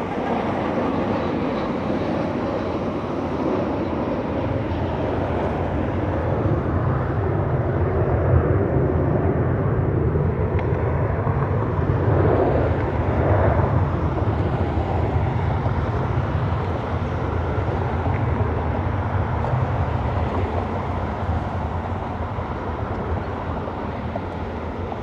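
Jet airliner engines roaring as an aircraft passes on or over the runway. The sound swells toward the middle and eases off near the end.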